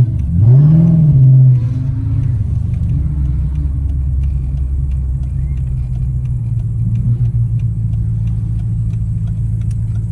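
Car engine revving briefly, its pitch climbing and dropping back within the first second and a half, then a steady low engine and road drone while driving. Faint, evenly spaced ticking runs over the drone.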